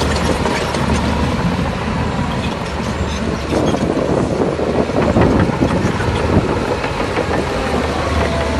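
Heavy diesel earthmoving machinery running steadily, with a dense spell of irregular metallic clatter and scraping through the middle.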